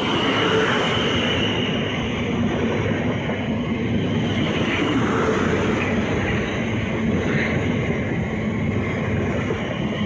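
A train running past on the track: a steady, loud rumble of wheels on rails with a steady high whine over it, after quickly building up just as it begins.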